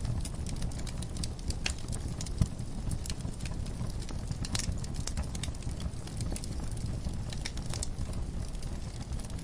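Wood fire crackling in a fireplace: irregular sharp pops and snaps over a steady low rumble of burning, with one louder pop about two and a half seconds in.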